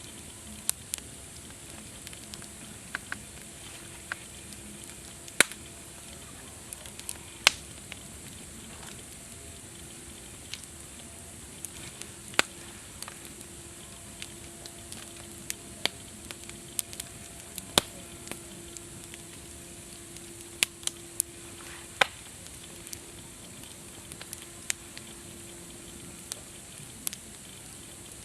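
Wood campfire burning, with a steady hiss and irregular sharp crackles and pops, a few of them much louder than the rest.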